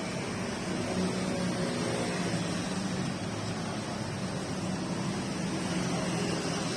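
Steady rain falling, an even hiss, with a faint low hum underneath from about a second in.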